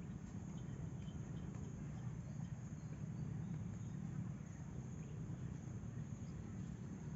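Outdoor nature ambience: a steady high-pitched insect drone, such as crickets, with a few faint short chirps over a low steady rumble.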